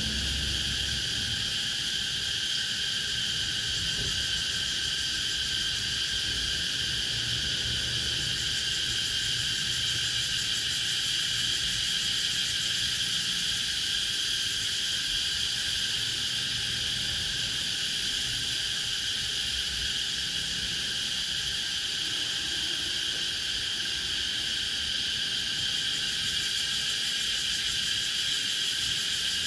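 Cicadas buzzing in a steady, continuous chorus, high-pitched and unbroken.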